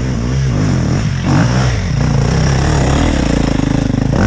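Dirt bike engine revving hard, its pitch rising and falling repeatedly as the throttle is worked, settling into a steadier higher note near the end.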